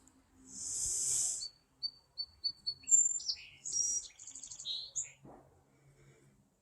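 Small birds calling at the feeders: a hissy high burst about half a second in, then a row of about five short, evenly spaced high notes, then a jumble of varied chirps that stops about five seconds in.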